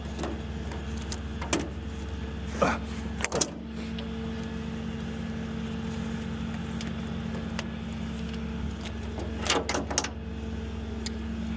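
Tow truck engine idling steadily, with a few short knocks and clanks around three seconds in and again near the ten-second mark.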